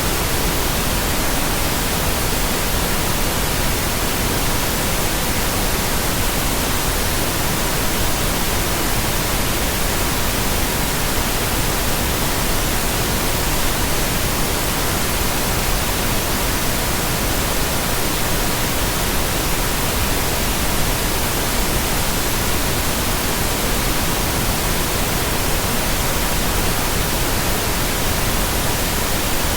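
Steady pink noise with a faint, unchanging tone near 1 kHz (963 Hz) running through it.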